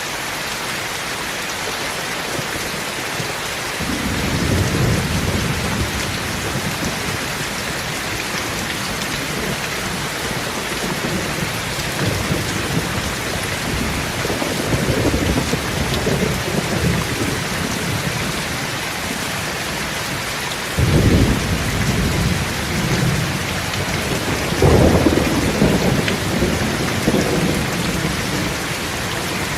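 Heavy rain falling in a steady hiss, with low rumbles of thunder rolling in four times, the third starting abruptly about two-thirds of the way through.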